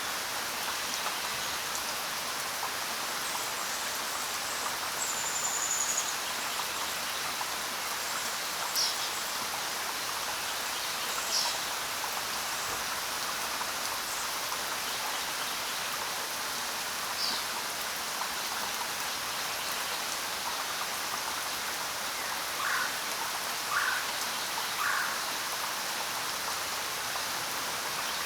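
Steady rain falling with an even hiss, over which birds give scattered short chirps and quick falling whistles, ending in three lower calls in quick succession.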